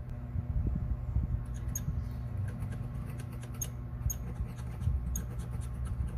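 Small irregular clicks and light scratches of metal tools handling tiny watch parts, over a steady low hum.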